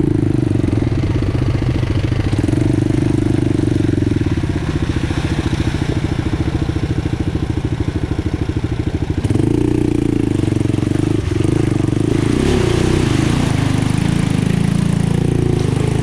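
ATV engine running under way on a trail ride, heard from aboard the quad. It eases off in the middle and picks up again about nine seconds in.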